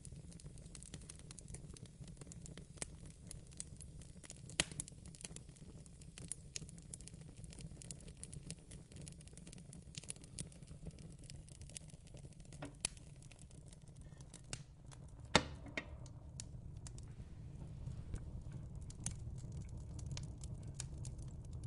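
Fireplace crackling softly: scattered small pops and clicks over a steady low rumble, with a couple of sharper snaps, one about four seconds in and one about fifteen seconds in.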